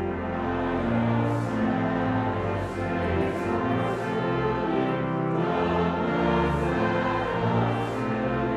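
A congregation singing a hymn together with instrumental accompaniment, in held chords over sustained bass notes that change every second or two.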